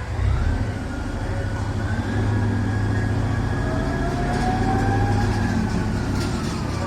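A train moving on the rails: a steady low rumble that swells about two seconds in, with faint thin whining tones above it that slowly shift in pitch, one rising briefly near the middle.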